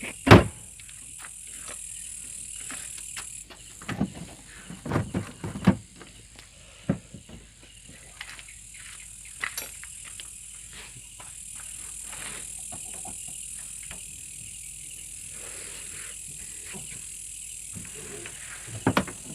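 Irregular clicks and knocks of hand work on a washing machine as its motor is refitted, with a sharp knock just at the start, over a steady high-pitched hiss.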